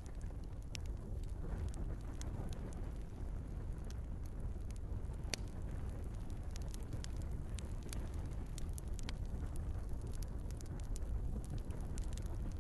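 Wood fire crackling in a fireplace: a steady low rush of burning with frequent small pops, and one sharper pop about five seconds in.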